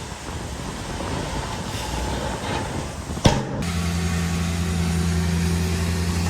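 Heavy diesel earthmoving machinery at work: a rough, noisy engine sound at first, a sharp click about halfway through, then a steady low engine drone at constant speed.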